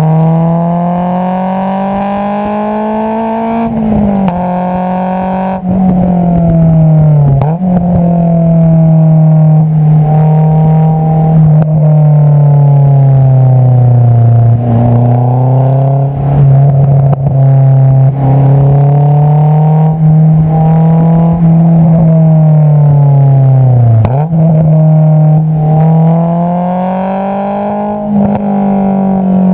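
Exhaust note of a Honda AP2 S2000's 2.2-litre four-cylinder through an Invidia Q300 cat-back exhaust, heard at the tailpipe. The note climbs under acceleration and drops sharply at gear changes about 4 and 7½ seconds in. It then cruises with slow rises and falls in pitch, dips sharply again near 24 seconds and climbs once more.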